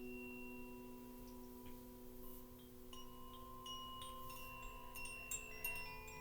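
Singing bowl ringing with a steady low hum, with small chimes tinkling over it in scattered light strikes that ring on.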